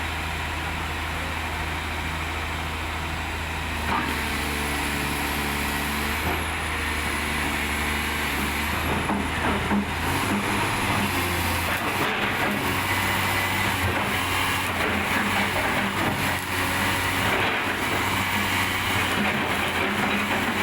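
Large diesel engine running steadily, its pitch and load shifting about four seconds in and again around ten seconds in, with a faint high whistle above it.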